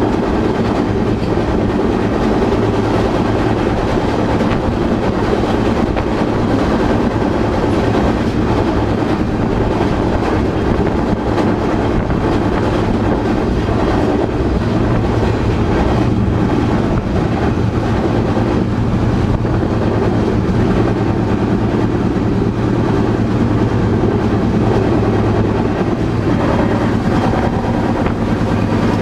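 Freight train running, a loud, steady rumble and rattle of the cars with no break.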